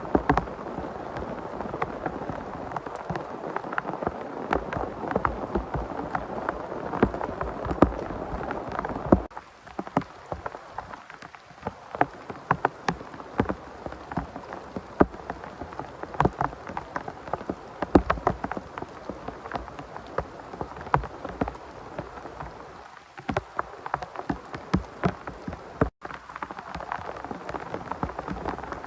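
Heavy rain falling: a dense, steady hiss with many sharp individual drop hits close to the microphone. About nine seconds in, the hiss thins and the separate drop hits stand out more, before it builds again near the end.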